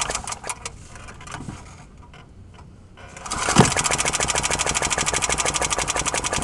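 Old lawnmower's small engine cold-starting on the pull cord. A brief run fades out in the first second. After a short pause, a few clicks and a pull, the engine catches again about three seconds in and runs with a fast, even beat.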